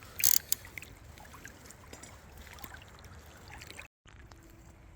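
River water running softly, with a brief sharp noise just after the start. The sound drops out completely for a moment near four seconds.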